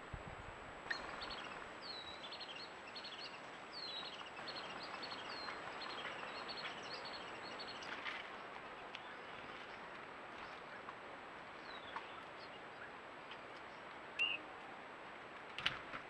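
Wild birds chirping: a quick run of short, high, falling notes repeated over and over for several seconds, then only a few scattered chirps and a couple of clicks, all over a steady outdoor hiss.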